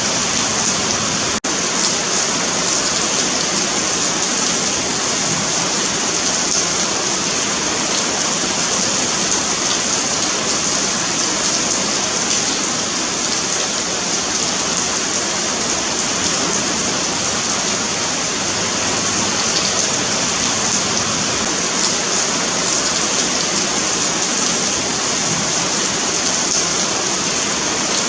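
Steady rain falling on a paved sidewalk: an even, continuous hiss of drops, with a split-second dropout about a second and a half in.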